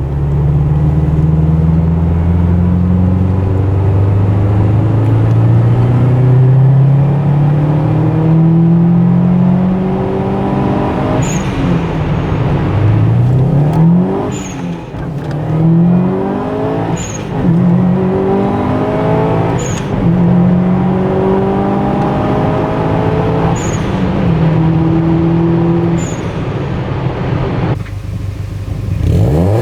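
Turbocharged EJ207 2.0-litre flat-four of a 2005 Subaru WRX STi, fitted with equal-length headers and a Maxspeed turbo-back exhaust, pulling hard: a long climb in pitch, then repeated revs that rise and drop back every two to three seconds, with a brief high chirp at several of the drops. Near the end the sound cuts off suddenly and a new rev begins.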